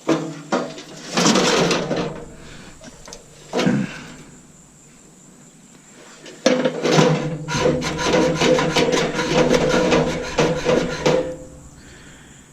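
Knocks and clatter of a stainless steel coffee maker being turned over and handled on a table, with a single thump a few seconds in. From about six and a half seconds a rapid clicking rattle runs for some four seconds.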